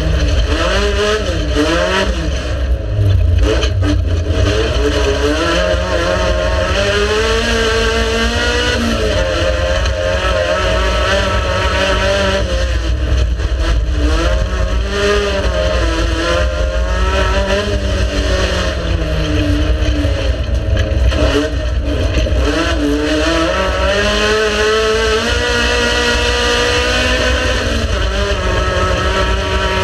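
Race car engine revving hard, its pitch climbing through each gear and dropping at the shifts, over and over.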